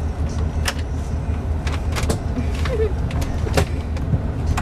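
Steady low drone of a Scania K400 double-decker coach under way, heard from inside the upper deck, with a few sharp clicks scattered through it.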